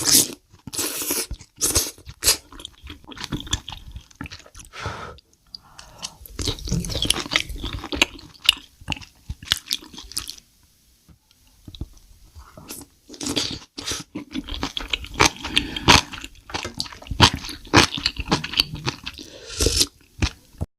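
Close-miked crunchy eating: bites and chewing with crisp crackles in dense clusters, pausing briefly a few times, then ending shortly before the end.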